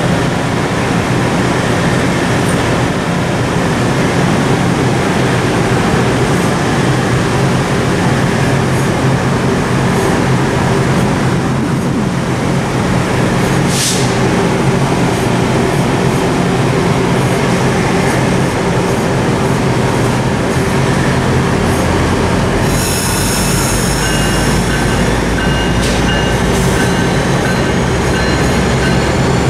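Stainless-steel passenger coaches of a commuter train rolling past close by, a loud steady rush of wheels on rails. A brief high wheel squeal cuts through about halfway, and thin high-pitched squealing tones, one slowly rising, set in for the last several seconds.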